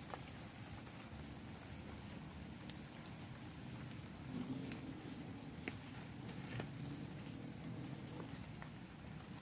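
Rain and wind around a plastic tarp shelter: a steady low rumble with scattered sharp taps of drops, over a steady high-pitched hum.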